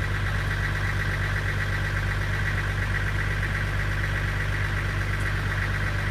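Truck engine running steadily: a constant low hum with a steady higher whine above it, unchanging throughout.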